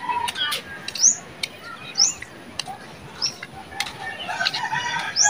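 Birds calling: a short, sharply rising chirp repeated roughly once a second, with scattered sharp clicks and a cluster of other calls near the end.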